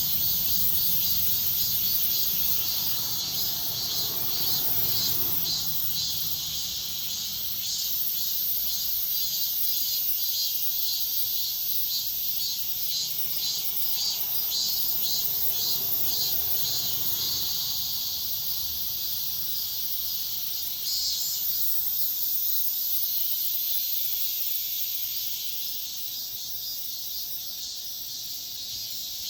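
Cicadas singing: a steady high-pitched buzz with a pulsing, rhythmic chorus beneath it, continuing unbroken.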